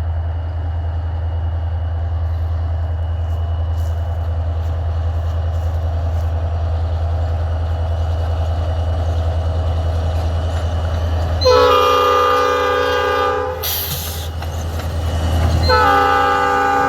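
Diesel locomotives running light, a steady low engine rumble as they approach, then the locomotive horn sounds: a chord blast of about two seconds, a brief burst of noise, and a second blast starting near the end.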